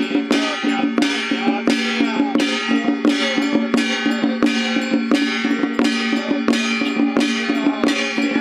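Taiwanese temple procession band: gongs and cymbals struck in a steady beat, about two ringing hits a second, with a gliding melody over a steady drone.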